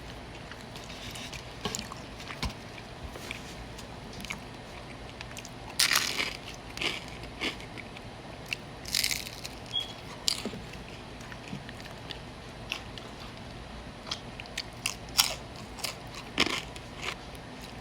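Close-up eating sounds: chewing and crunching on crisp fried tacos dorados, in irregular bites with several louder crunches scattered through.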